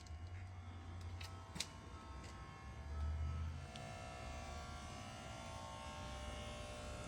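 Cammed truck engine idling with a steady low rumble that swells briefly about three seconds in, plus a couple of sharp clicks about a second and a half in.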